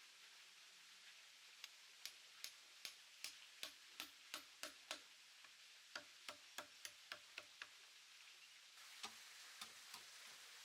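Repeated sharp taps, about two to three a second, then a faster run of about four a second after a short pause, and a couple more near the end, like a tool striking wood in carpentry work.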